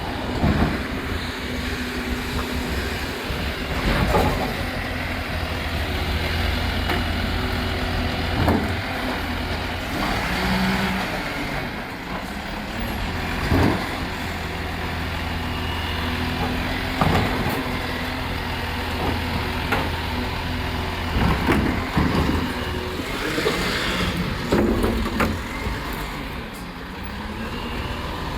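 Recycling truck's diesel engine running steadily, with about a dozen short, sharp noises every few seconds on top of it.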